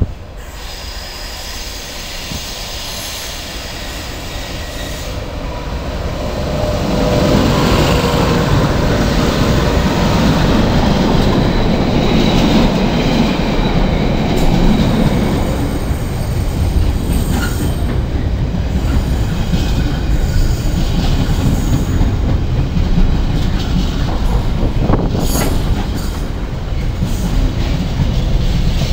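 A container freight train approaching and then passing close by: the sound builds for about seven seconds as the locomotive nears and goes past, then holds loud and steady as the long line of container wagons rolls by, with a few sharp clicks near the end.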